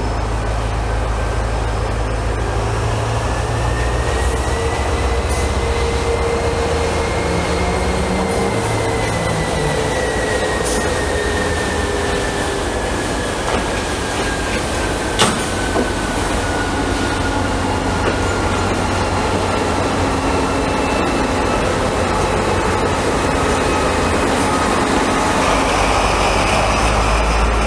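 Train moving slowly through a railway station: a steady rumble with a thin high tone that slowly rises and then falls, and one sharp click about halfway through.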